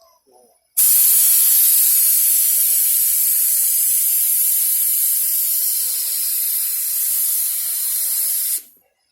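Paint spray gun spraying thick primer in one continuous hiss that starts abruptly just under a second in and cuts off sharply near the end.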